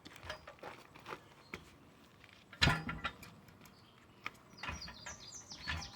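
Scattered knocks, one heavy thump about two and a half seconds in, then a quick run of clicks and short squeaks near the end. These come from a truck tire's bead being worked off its rim by standing on the tire and bumping it.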